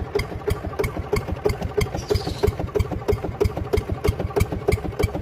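Tractor engine chugging steadily at idle, with an even beat of knocks, roughly three strong ones a second.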